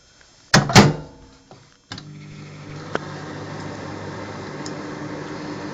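Two loud knocks, then a microwave oven starts up about two seconds in and runs with a steady hum.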